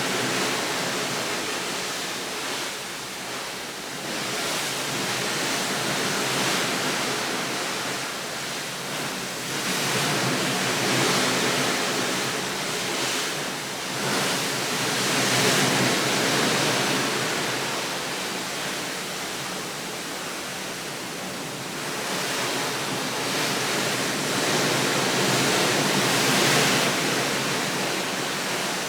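Steady rushing outdoor noise with no distinct events, swelling and easing every several seconds.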